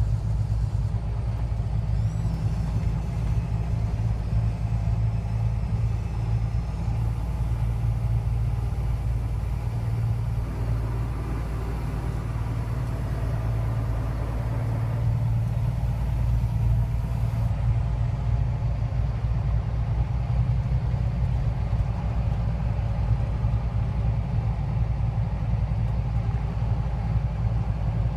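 Semi truck's diesel engine and road noise heard inside the cab while driving at a steady pace: a constant low drone.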